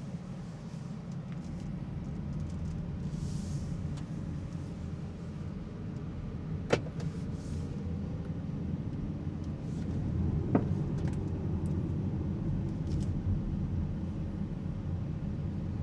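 Alpine A390 electric car driving, heard from inside the cabin: a steady low rumble of tyre and road noise with no engine note. Two short sharp knocks come a few seconds apart in the middle.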